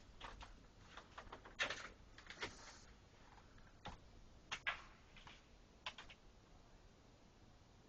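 Faint, irregular cracks and pops of tree branches snapping and crackling under the weight of heavy wet snow, loudest a little under two seconds in and again about four and a half seconds in, dying away after about six seconds.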